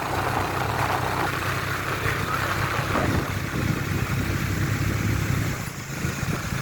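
A vehicle engine running steadily, a low even hum with road noise over it.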